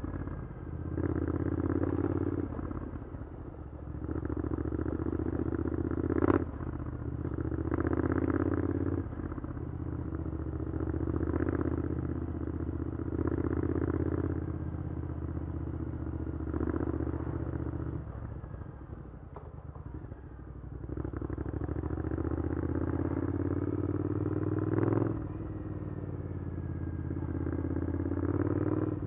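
Triumph Scrambler 900's parallel-twin engine through an Arrow aftermarket exhaust in stop-and-go riding, the engine note swelling and easing off again and again as the throttle is opened and closed. It goes quieter, as if coasting, about two-thirds of the way through. Two sharp cracks stand out, one about six seconds in and one near the end.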